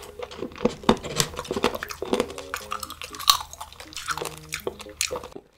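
Close-up crunching and chewing of kimchi-flavoured almonds: a dense run of crisp cracks and crackles. The sound cuts out just before the end.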